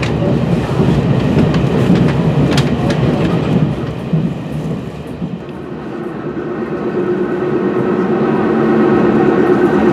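Taiwan Railway Fuxing-class passenger train running, heard from inside the carriage: rumble with scattered clicks of wheels over rail joints for the first few seconds, then, after a brief dip, a steady drone with a humming tone that grows steadily louder.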